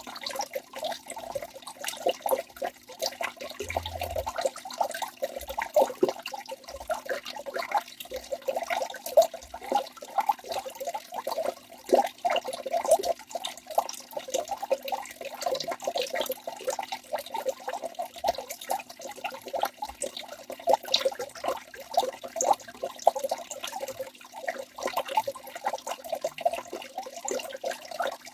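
Waterfall water splashing and gurgling without a break: a dense run of small splashes with hardly any deep rumble.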